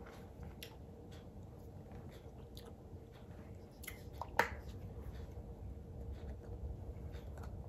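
Faint chewing and mouth sounds of someone eating soft papaya purée, with a sharp click a little past halfway as the flip-top cap of a plastic honey bottle is snapped open.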